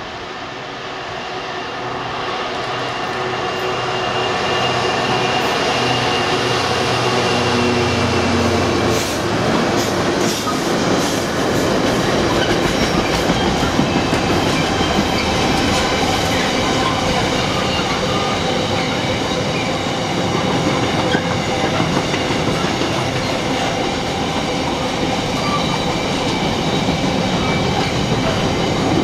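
Freightliner Class 66 diesel locomotive approaching and passing, its two-stroke V12 engine note growing louder and then dropping in pitch about nine seconds in. A long container train follows, running past steadily with wheels clattering over rail joints and a thin high wheel squeal.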